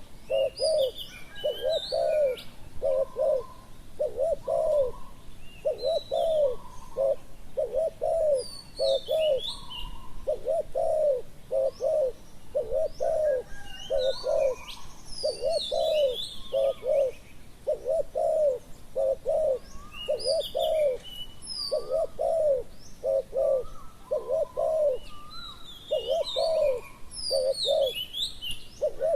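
Spotted doves cooing in a steady series of short repeated phrases of low coos, with small birds chirping higher above them now and then.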